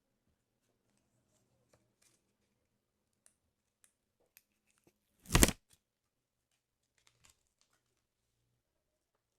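A page of a paper sticker album torn once in a short, sharp rip about five seconds in, with faint scattered paper ticks and handling before and after it.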